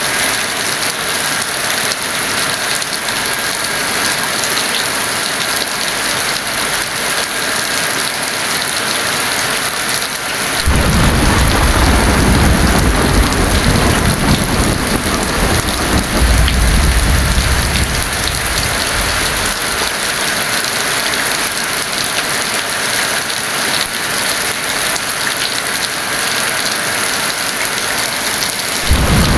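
Heavy rain falling steadily. About ten seconds in a long roll of thunder rumbles for about nine seconds, and another roll begins right at the end.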